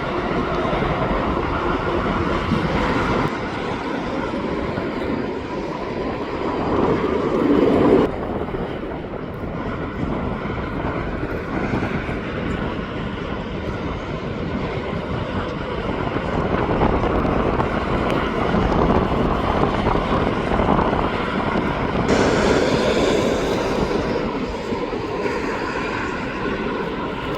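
Jet airliner engines running, a steady rushing noise with a faint whine. The sound changes abruptly about 8 seconds in and again about 22 seconds in.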